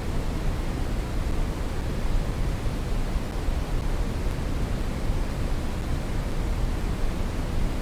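Steady brown noise: an even, unbroken rushing hiss, deepest and strongest in the bass and fading toward the treble.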